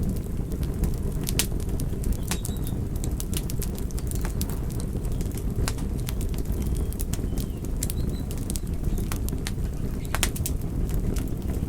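Campfire burning: irregular sharp crackles and pops from the burning wood over a steady low rumble. A few faint, short high chirps are heard now and then.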